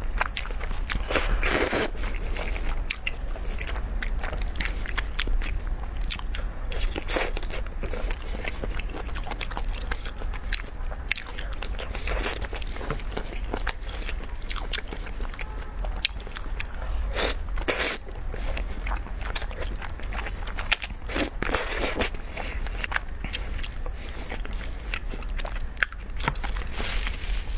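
Close-miked eating sounds of a person biting and chewing mouthfuls of thick, saucy malatang: a continual run of wet, crunchy clicks and smacks.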